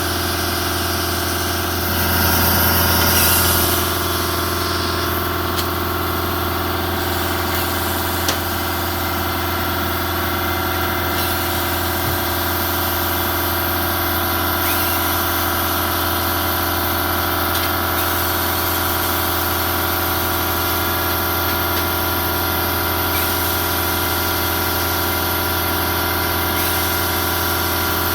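An engine idling steadily, with a brief rise in level about two seconds in and a single click a few seconds later.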